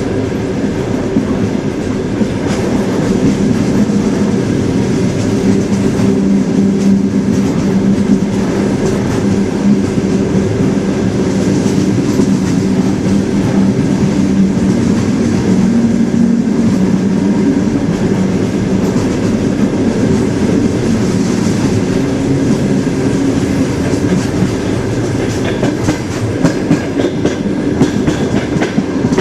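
Train wheels running steadily on the rails: a continuous rumble of a moving train with a steady low hum.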